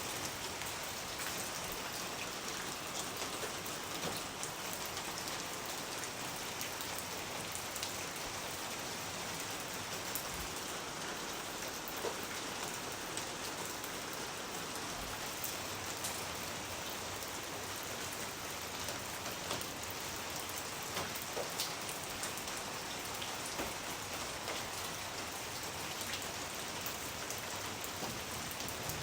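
Steady rain falling, an even hiss with scattered louder drops striking a surface.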